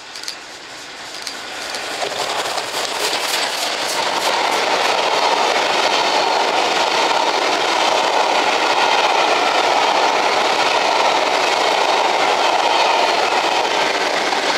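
Steam-hauled passenger train, headed by LMS Royal Scot class 4-6-0 locomotive 46115 Scots Guardsman, running through a station at speed. The sound grows over the first few seconds as the train approaches. It then becomes a loud, steady rush of coach wheels on the rails as the carriages pass close by.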